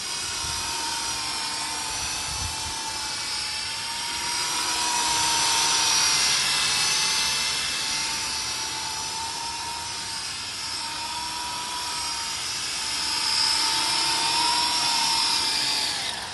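SYMA Chinook toy RC helicopter's two small electric rotor motors, front and back, whining steadily with a wavering pitch as the throttle is worked, then winding down near the end as it comes in to land.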